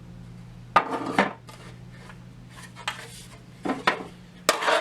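Paint-stripped sheet-metal tackle box trays clattering as they are handled and set down: a few sharp metal clanks about a second in, again around three seconds, and a louder rattle near the end.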